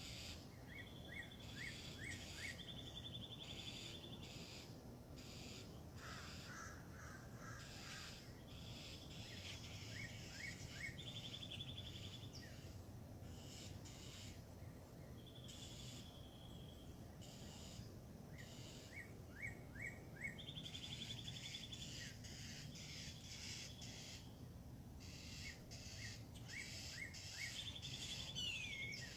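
Several wild birds singing and calling: short trilled phrases and quick chirps come again every few seconds over a steady low background rumble.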